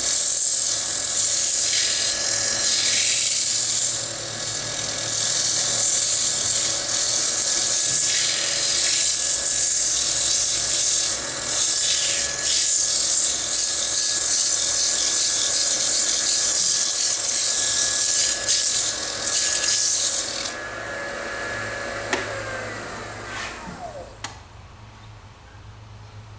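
Sandpaper hissing against a wooden bowl spinning on a wood lathe, over the steady whine of the lathe motor, as the bowl is sanded between coats of finish. About twenty seconds in the sanding stops; a couple of seconds later the lathe is switched off and its whine falls in pitch as it spins down.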